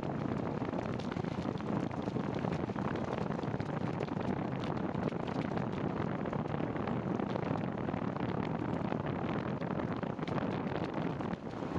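Steady rushing noise of wind and rain on the microphone while riding a bicycle in the rain, with many small scattered ticks.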